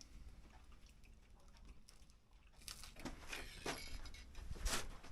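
Quiet handling noise: starting a little past halfway, a series of short crinkly rustles and light knocks, the loudest near the end.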